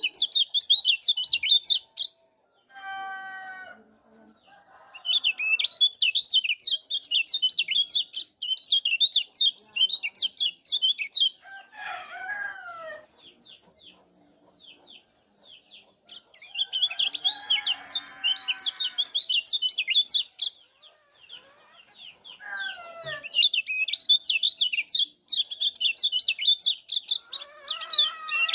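Kecial kuning white-eyes giving rapid, high 'ciak' chatter in several long bouts with short pauses between. A few lower, falling calls of a chicken or rooster come in between and under the bouts.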